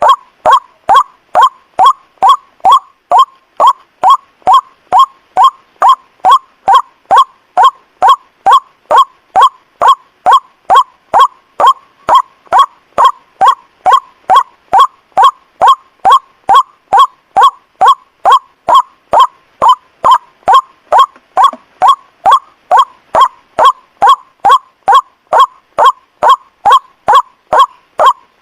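White-breasted waterhen's 'ruak' call repeated in an unbroken, even rhythm of about two short notes a second. It is a lure call (pikat) for drawing waterhens in at night.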